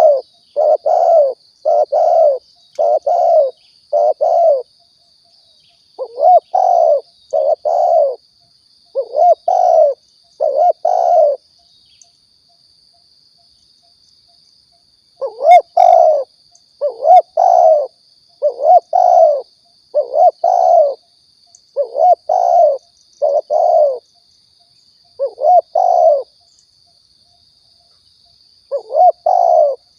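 Spotted dove (tekukur) cooing: short coos repeated in runs of several, separated by pauses of a few seconds. Under the coos runs a faint, steady high whine.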